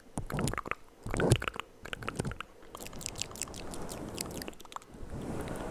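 Close-miked ASMR mouth sounds: wet clicks and smacking, then a steadier stretch of noise from about halfway through.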